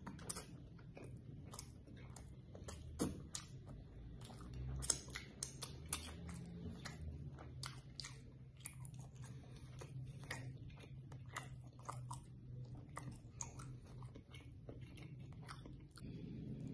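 A person chewing a mouthful of grilled chicken close to the microphone: quick, irregular wet mouth clicks and smacks, one after another.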